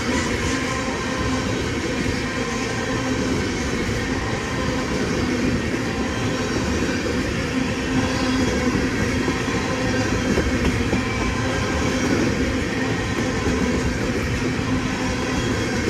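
Freight train rolling past at a steady speed: a continuous rumble of wheels on rail with a steady hum.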